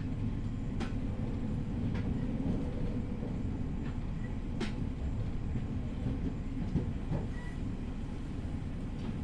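Cabin running noise of a JR East E501 series electric train travelling slowly under a strong-wind speed restriction: a steady low rumble with a few sharp clicks.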